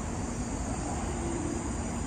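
Steady low rumble of a train running on the railway station tracks, with a faint steady hum.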